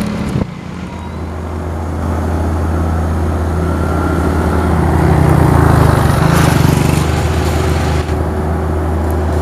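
Heavy-haul truck's diesel engine running with a steady low hum, growing louder for a few seconds around the middle, then settling.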